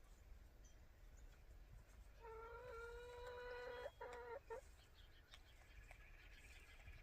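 A chicken gives one long, drawn-out call of steady pitch lasting nearly two seconds, followed by a couple of short broken notes. It is faint.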